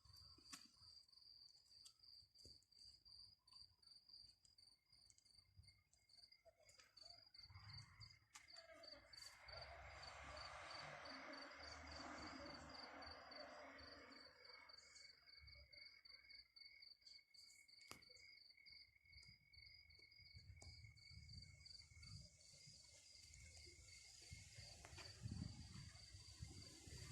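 Faint crickets chirping in a steady, rapidly pulsing trill, with a soft rush of noise swelling and fading around the middle.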